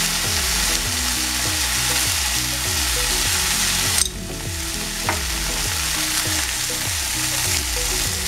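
Chicken breast fillets sizzling steadily in hot oil in a frying pan, browning on their second side; the sizzle dips briefly about four seconds in. A steady low beat of background music runs underneath.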